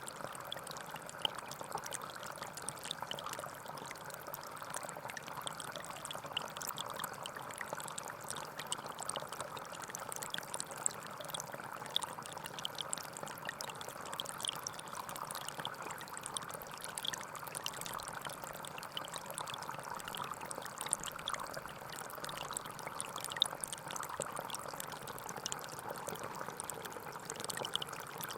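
Gentle forest stream flowing steadily, a continuous burbling rush with many small splashes and droplet ticks throughout.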